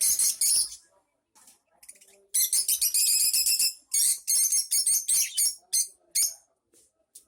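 A bird calling in several bursts of rapid, high-pitched chirping, with short pauses between them.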